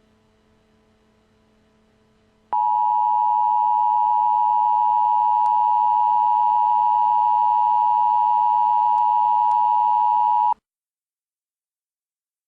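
Emergency Alert System attention signal: a loud steady two-pitch tone that begins abruptly about two and a half seconds in over a faint hum, holds for about eight seconds and cuts off suddenly, announcing an emergency alert message.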